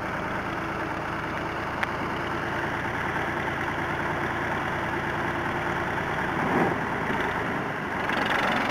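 Tractor engine idling steadily, with a short click about two seconds in and a brief louder swell about six and a half seconds in.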